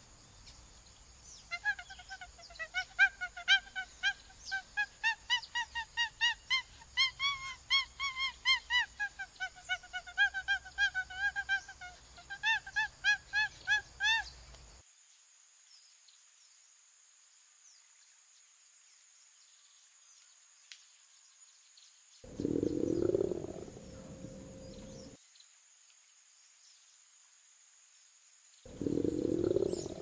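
A monkey calling in a quick run of short, rising-and-falling pitched calls, about three a second, for some thirteen seconds before cutting off abruptly. Later come two shorter, lower-pitched bursts of sound, each two to three seconds long.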